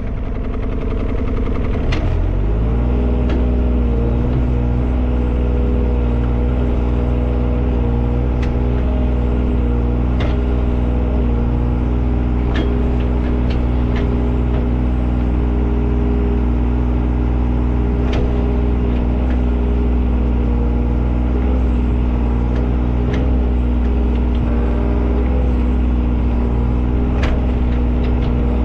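Engine running at a steady speed, picking up slightly about two seconds in and then holding, with scattered sharp clanks over it.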